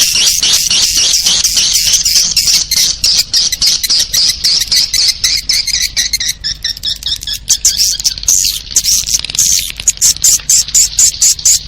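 Swiftlet calling-sound recording, the lure track played to draw edible-nest swiftlets into a bird house: dense, rapid, high-pitched twittering chirps that settle into a more even run of pulses, several a second, in the last few seconds.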